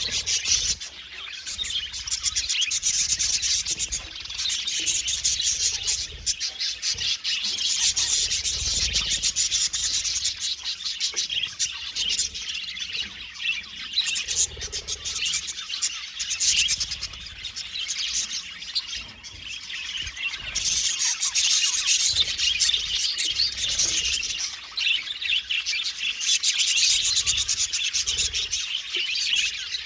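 Budgerigars chirping and warbling together in a continuous, busy chatter of rapid high chirps, swelling and easing in waves.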